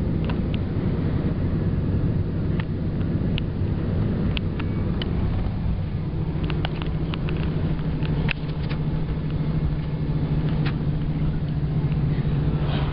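Vehicle engine and road noise heard from inside the cab while driving: a steady low drone that grows a little stronger about halfway, with scattered light ticks and rattles.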